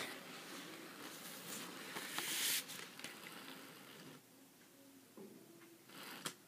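Hornby 2-10-0 model steam locomotive running on its track pulling three freight cars: a faint motor hum with scattered clicks from the wheels, quieter after about four seconds.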